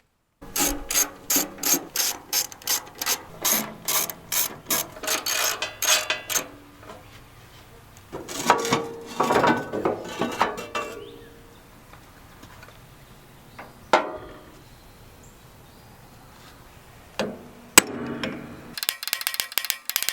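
Hammer striking a punch to drive out roll pins, a steady series of sharp metal taps about three a second, then a rougher scraping stretch, a few single knocks and a burst of rapid clicking near the end.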